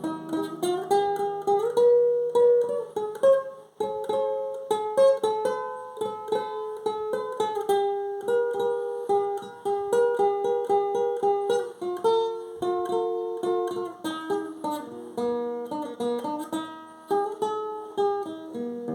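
Viola caipira played solo, a melodic instrumental passage of quickly plucked notes between sung verses.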